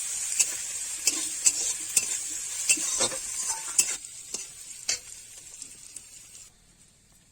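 Curry ingredients sizzling in hot oil in a pan while they are stirred, the utensil knocking and scraping against the pan about every half second for the first five seconds. The sizzle weakens about four seconds in and stops about six and a half seconds in.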